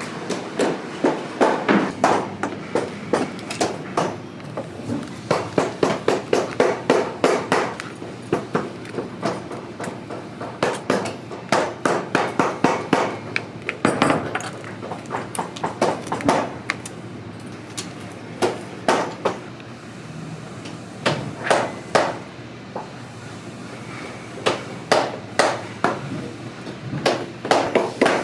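Runs of quick hammer blows in a boot repair shop, several a second in bursts with short pauses between, typical of hammering tacks or pounding the sole during a boot resole.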